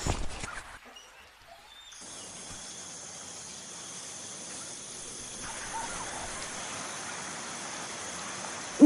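Steady outdoor-type ambience: an even hiss with a faint, continuous high-pitched drone, coming in after a brief near-silent gap about a second in.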